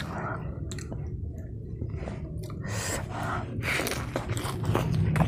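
Close-miked chewing and wet mouth smacks of a person eating spicy pork curry with rice by hand, heard as irregular clicks and squishes.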